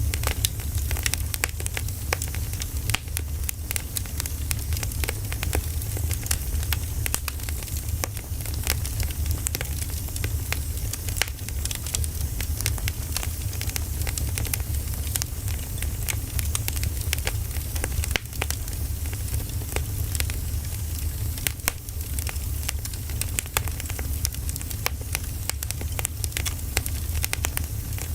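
Burning firewood crackling, with many small sharp pops over a steady low rumble.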